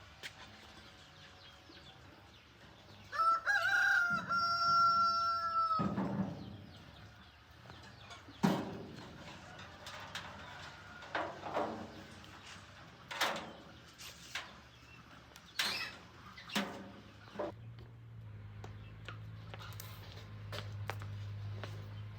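A rooster crows once, a long held call about three seconds in, followed by scattered knocks and clicks.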